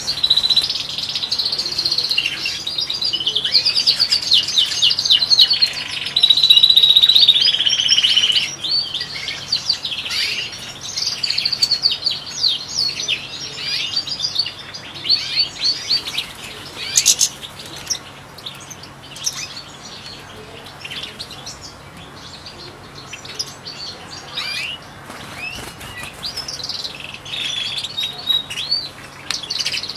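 European goldfinches singing and twittering: a fast, dense liquid warble for the first several seconds, then scattered short calls, growing busier again near the end.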